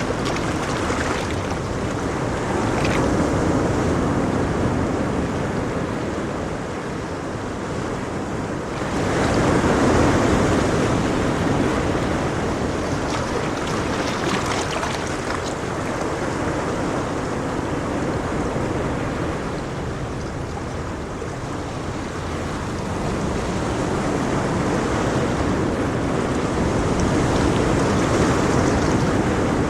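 Ocean waves breaking and washing on a shore, a continuous surf that swells and ebbs, with the biggest surge about ten seconds in.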